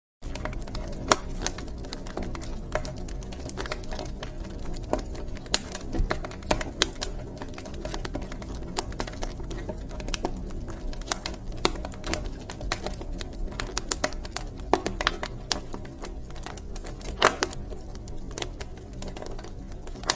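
Wood fire crackling and popping, with irregular sharp snaps over a steady low rumble of burning logs. It cuts in a moment after a brief silence.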